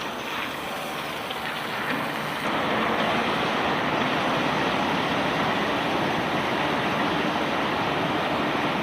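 Steady rushing noise of rock carried along a conveyor belt, stepping up to a louder, fuller level about two and a half seconds in.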